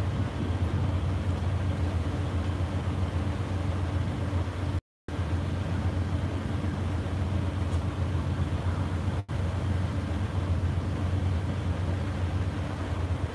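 Amtrak Superliner passenger train standing at the platform, idling with a steady low hum. The sound cuts out completely for a moment about five seconds in.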